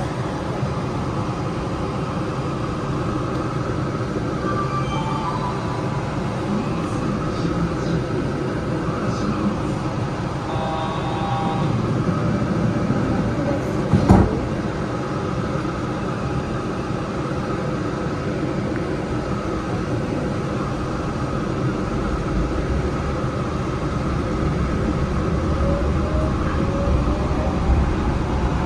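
Yurikamome rubber-tyred automated train standing at a station with a steady equipment hum, two brief sets of chime tones and one sharp knock about halfway. From about 22 seconds in, the drive rumble builds and a rising motor whine sets in as the train starts to pull away.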